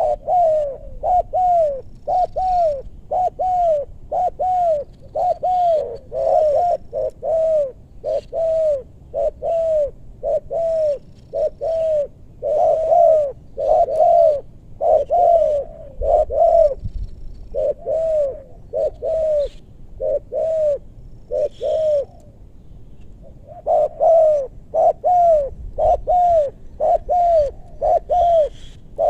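Spotted dove (tekukur) cooing: a long run of short, rounded coos, one to two a second, with a brief pause about three quarters of the way through before the coos resume.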